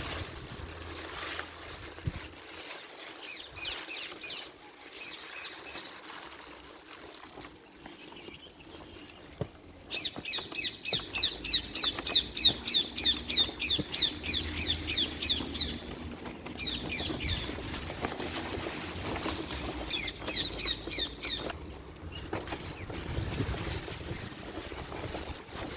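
Bird chirping: rapid trains of short, high chirps, several a second, in three bouts. The longest and loudest bout comes in the middle, over a steady low background hum.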